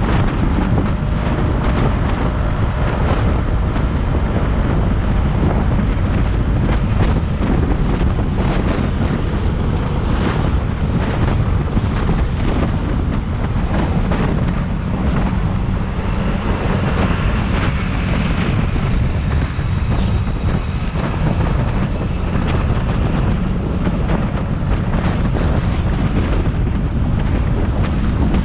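Steady low rumble of wind on the microphone and road noise from a motorcycle being ridden.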